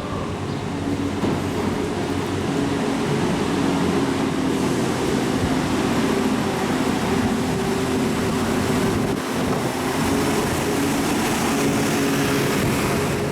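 Passenger train running at the station: a steady mechanical drone with wavering hum tones, building over the first few seconds and then holding.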